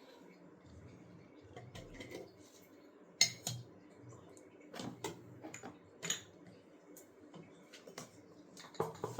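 Metal spoon clinking and tapping against steel bowls and spice containers while spices are added to a vegetable mix: a scattering of separate clinks, the loudest about three seconds in.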